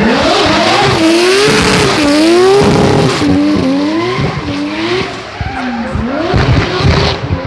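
Race car engine revving hard, its pitch rising and falling several times as the throttle is worked, with tyre squeal over the first few seconds.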